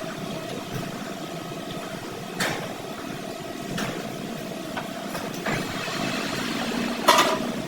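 A motor running steadily with a held hum, broken by a few sharp knocks, the loudest near the end.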